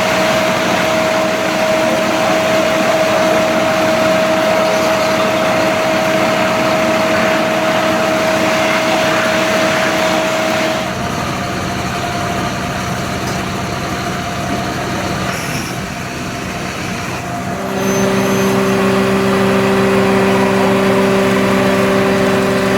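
Fire truck's diesel engine running steadily, with a loud hum that drops in level and changes pitch about halfway through, then steps up again near the end.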